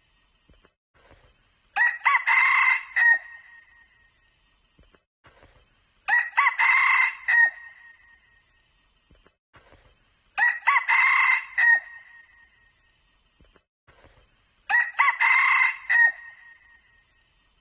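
Red junglefowl cock crowing four times, each crow about a second and a half long, evenly spaced about four seconds apart and alike in shape.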